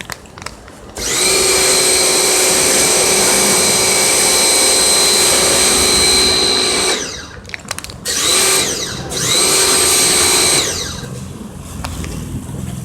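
High-speed electric motor, like a power tool's, running at a steady high whine for about six seconds and then winding down. It spins up again for a second run of about two and a half seconds before winding down once more.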